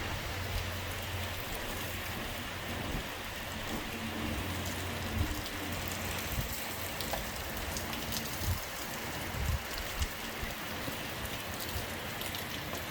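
Steady heavy rain from a hurricane falling and splashing on surfaces, with scattered drips and knocks and a low hum underneath.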